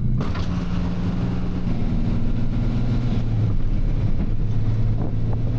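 Tow truck's engine running as it drives, a steady low drone over road noise, its pitch shifting slightly a couple of times.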